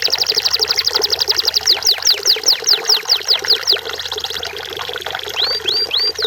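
Canary singing: a fast rattle of short falling notes that slows into separate falling whistles, then a brief steady roll about three-quarters through and three hooked notes near the end.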